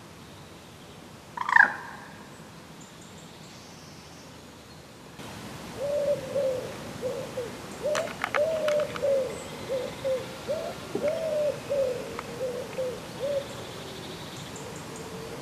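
Birds calling: one loud, sharp call about one and a half seconds in, then a run of short, low calls, about two a second, for several seconds. A few faint ticks come in the middle of the run.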